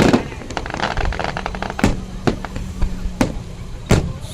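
Aerial fireworks going off: several sharp booms a second or so apart, with a patter of crackling between them.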